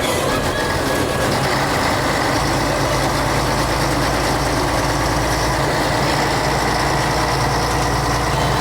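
Diesel engine of a 1966 Scania Vabis BF56 bus running steadily, with a deeper low rumble coming in about two and a half seconds in.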